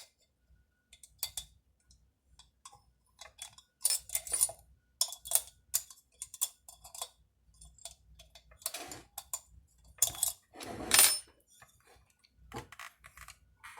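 Metal chainsaw parts and hand tools clinking and tapping irregularly during reassembly, with a longer, louder clatter a little after ten seconds in.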